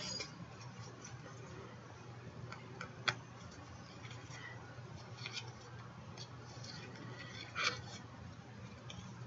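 Paper being cut and handled at a craft table: a sharp click about three seconds in and a few short papery rustles, over a steady low hum.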